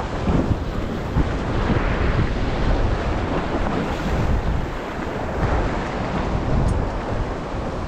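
Strong wind buffeting the microphone over the steady rush of surf.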